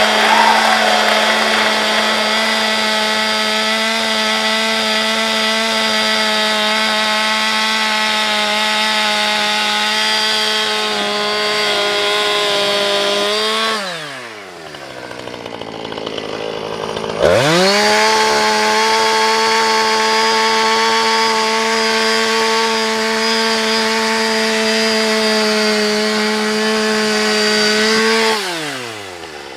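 Chainsaw running at full throttle as it cuts into a large cardboard box, its pitch held steady. About halfway through the throttle is let off and the pitch falls away for a few seconds, then it revs sharply back up, holds, and winds down again near the end.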